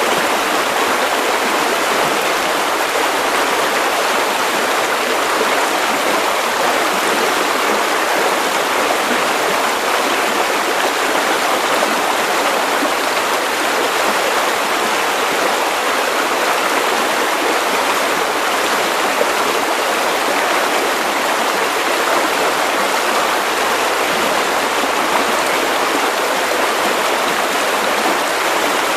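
Steady white noise for baby sleep: an even, unbroken hiss, fullest in the middle range and thin in the bass.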